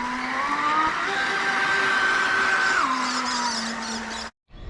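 Battery-powered RC jet boat's electric motor and jet whining over the rush of water, the pitch rising about a second in as the throttle opens, holding, then dropping back just before three seconds. The sound cuts off abruptly near the end.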